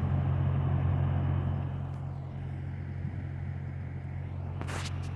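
A truck engine running steadily at idle, a little louder in the first second and a half, with one brief hiss near the end.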